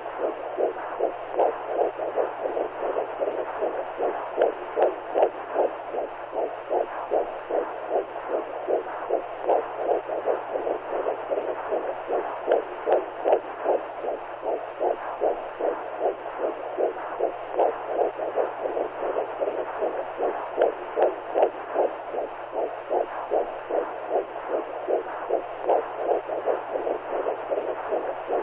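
Womb sound: a rhythmic whooshing pulse, like blood flow and a heartbeat heard from inside the uterus, about two pulses a second, over a steady low hum.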